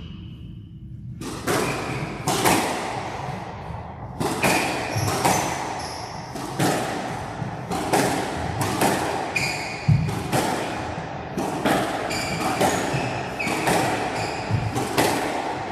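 Squash rally: the ball struck by racquets and smacking off the court walls in a steady run of sharp hits, about one or two a second, with short squeaks of court shoes on the wooden floor between them.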